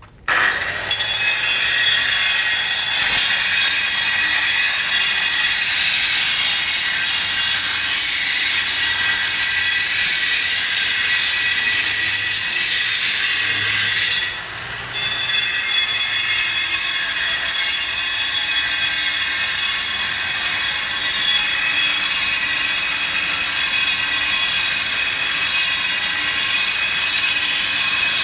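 Power tool cutting stone, with a loud steady high-pitched whine. It starts suddenly, drops out for a moment about halfway through, then runs on.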